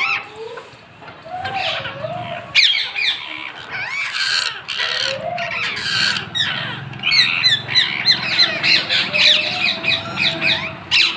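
Parrots squawking and chattering: scattered short, sweeping calls that thicken into a quick run of calls in the second half, with a few lower whistled notes.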